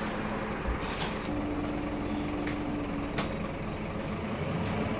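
Scania K230UB Wright Solar single-decker bus running, a steady engine and road drone. There are a few sharp clicks and rattles, and a steady low tone lasting about two seconds from just over a second in.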